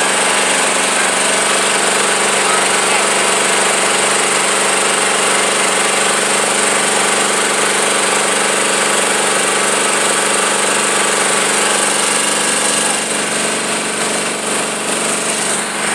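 Tractor engine running steadily close by, a rapid clatter over a steady drone. It eases a little about thirteen seconds in.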